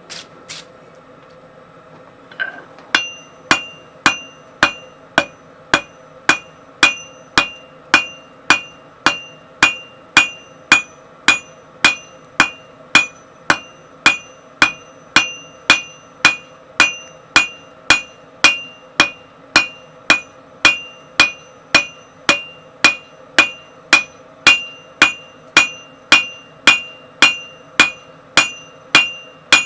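Hand hammer striking hot tool steel on an anvil in an even rhythm, a little under two blows a second, each blow ringing, over a steady hum. The hammering starts about three seconds in, after a couple of light clicks.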